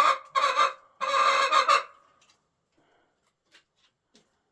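A young rooster whining: three loud, harsh calls in quick succession in the first two seconds, the last the longest, then only faint small ticks.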